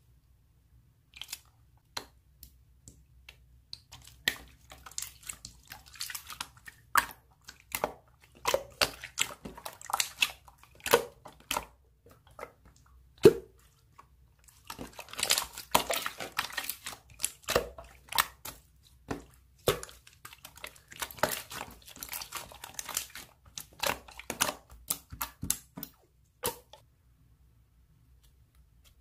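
Hands kneading and pressing slime: irregular crackling and popping clicks with squishy pops, in bunches with short pauses.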